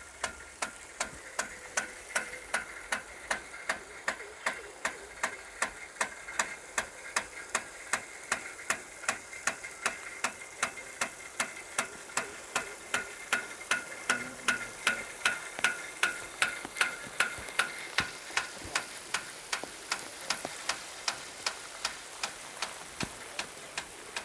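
Rain gun sprinkler running: a steady hiss of spraying water with the sharp, regular ticking of its arm, about two to three strikes a second, louder around the middle and fainter near the end.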